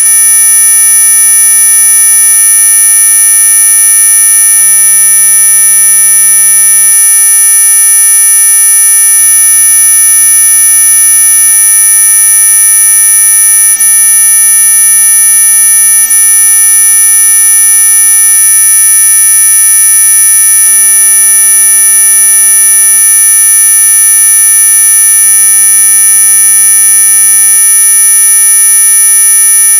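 Synthetic anti-mosquito repellent tone: a loud, unbroken electronic whine made of several steady pure tones at once, the strongest very high-pitched, with no change in pitch or rhythm.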